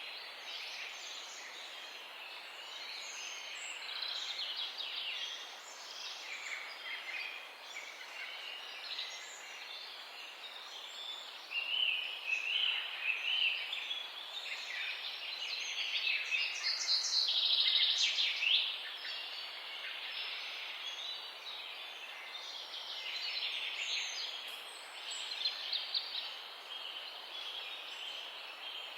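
Dawn chorus: many small birds chirping and trilling at once in overlapping high calls, busiest and loudest about two-thirds of the way through.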